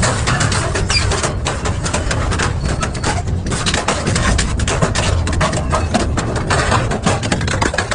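Double-shaft industrial shredder running and tearing through metal, a low rumble of the drive under a dense, irregular stream of cracks, snaps and knocks as the material is ripped apart.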